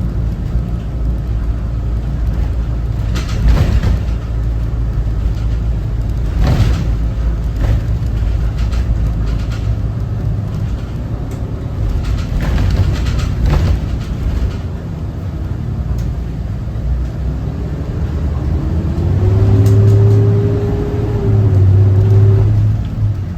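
The Cummins ISB 6.7 diesel engine of a 2018 Thomas Saf-T-Liner C2 school bus, running steadily while the bus drives, with scattered knocks and rattles. In the last few seconds a louder drone comes in, with a tone that rises and then holds.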